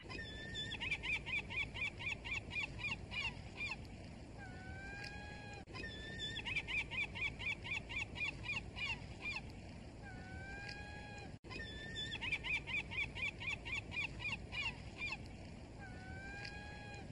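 A gull calling: a rapid laughing series of short calls, then a few longer drawn-out calls. The same sequence repeats three times, as a looped recording, over a steady low background noise.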